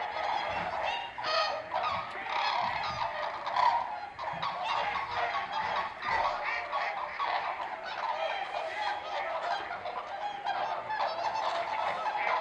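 A large flock of wild birds calling, many short calls overlapping without a break.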